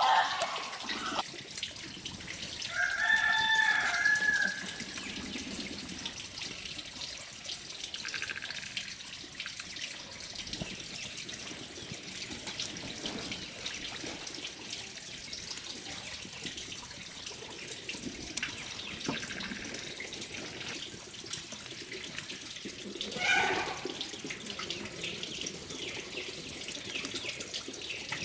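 A rooster crows once, about three seconds in, over the steady sound of running water. A shorter fowl call follows later on.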